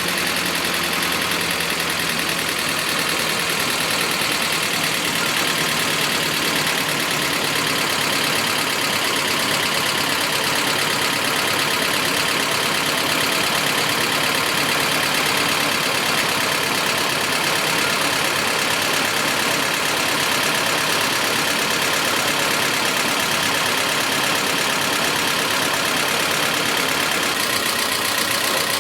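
Toyota 2TR dual VVT-i four-cylinder petrol engine idling steadily with a loud, unpleasant knock, so that it sounds like a diesel. The engine logs camshaft timing error P0014, and its VVT-i phasers do not respond to commands.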